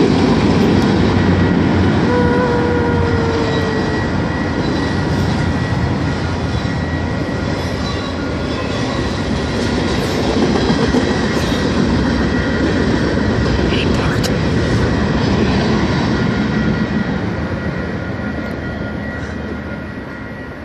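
Canadian Pacific train passing: the steady noise of its wheels running on the rails, fading over the last few seconds.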